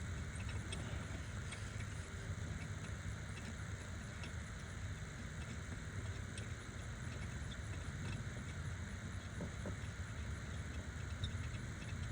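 Faint, scattered metallic clicks and clinks of hand tools working a bolt loose, over a steady low background rumble.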